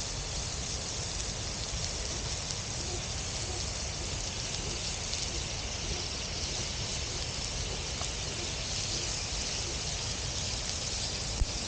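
Steady, even rush of gently flowing water, with a single sharp click near the end.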